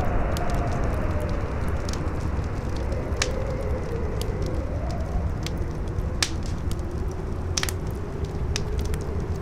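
Wind howling in a wavering tone that rises and falls over a steady rushing noise, with a wood fire crackling: sharp pops scattered throughout, a few of them louder.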